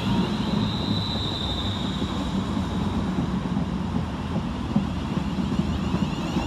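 Class 350 Desiro electric multiple unit running through the station with a steady rumble, and a thin high tone over the first couple of seconds.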